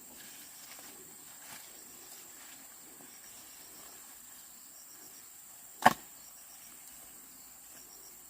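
Crickets and other insects chirping steadily, with one sharp wooden-sounding knock about six seconds in.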